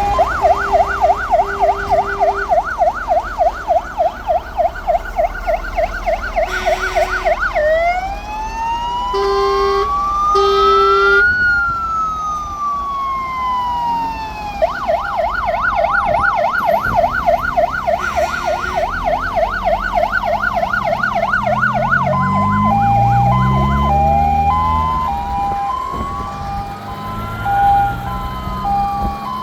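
Fire engine sirens sounding as the trucks pass in procession: a fast yelp, a slow rising-and-falling wail, and a two-tone hi-lo, several overlapping. There are a few short horn blasts about ten seconds in, and an engine revs up, rising in pitch, past the twenty-second mark.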